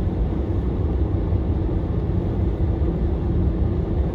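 Steady low rumble of a car driving on a snow-covered road, heard from inside the cabin: tyre and engine noise.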